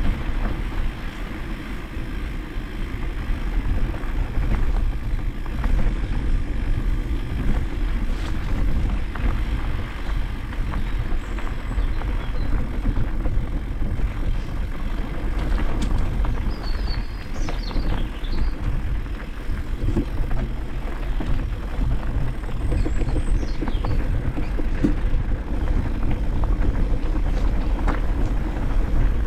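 Motocross motorcycle engines running on the track, a continuous rumble whose loudness rises and falls.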